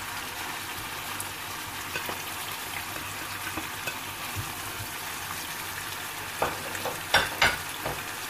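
Lamb, onion and tomatoes sizzling steadily in oil in a frying pan as spices are added. Near the end a metal spoon knocks against the pan several times while stirring.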